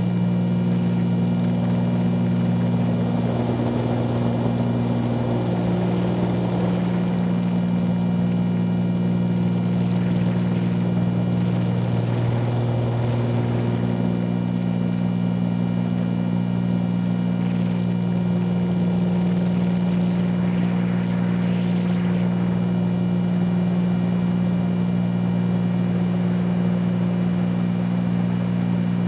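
The twin six-cylinder piston engines and propellers of a 1974 Cessna 310Q droning steadily in flight, heard inside the cabin. The drone holds a constant pitch, with the higher tones shifting slightly now and then.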